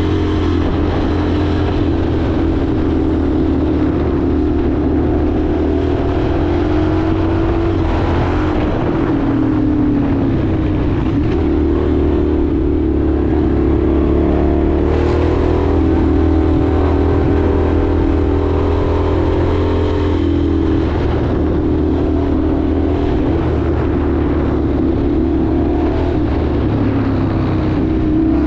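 Indian FTR 1200's V-twin engine running under way on a ride, its pitch rising and falling with the throttle, with noticeable dips about a third and two-thirds of the way through.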